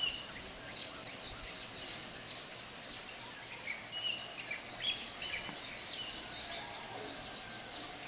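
Many wild birds chirping and twittering: short, high, quick calls overlapping one another, over a steady background hiss.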